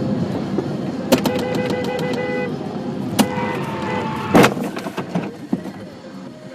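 Road traffic noise with a car horn sounding for about a second and a half, and several sharp bangs, the loudest about four seconds in.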